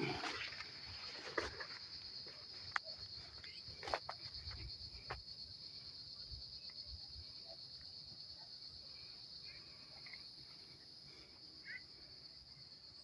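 A steady, high-pitched chorus of insects buzzing, with a few sharp clicks and rustles in the first five seconds.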